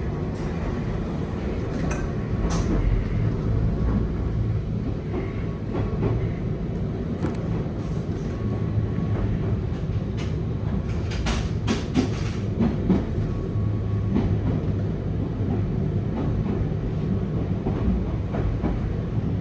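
Running noise of a Nankai 2200-series Tenku train car heard from inside: a steady low rumble of the wheels on the track, with a cluster of sharp clicks about eleven to thirteen seconds in.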